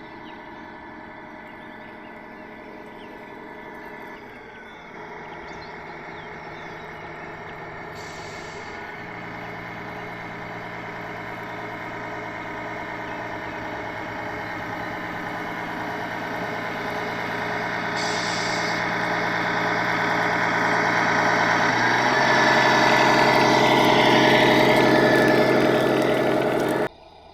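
Radio-controlled construction vehicle running steadily, its drive sound stepping in pitch a few times and growing louder until it cuts off suddenly near the end.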